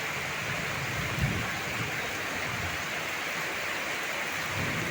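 Heavy tropical rain pouring steadily, an even hiss of downpour. A single short low thump sounds a little over a second in.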